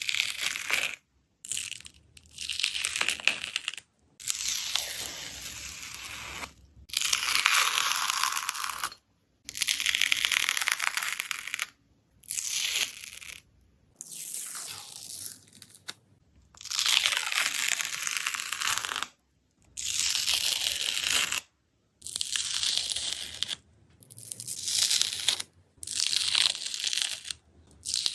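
A dried skin layer on slime being torn and peeled with a hissing, crackling tear. The sound comes in about a dozen separate stretches of one to three seconds, with abrupt short silences between them.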